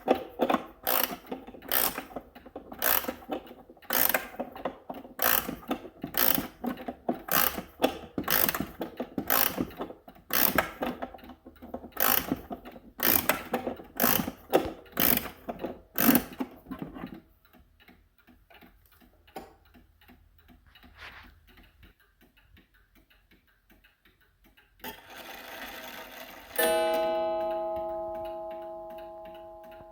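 Seth Thomas beehive mantel clock ticking at about two beats a second, loudly at first and then more faintly. Near the end the strike train whirs briefly and the clock sounds a single strike that rings and slowly dies away.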